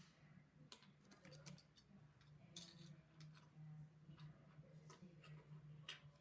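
Faint, irregular clicks of plastic LEGO bricks being handled and pressed together, over a low steady hum.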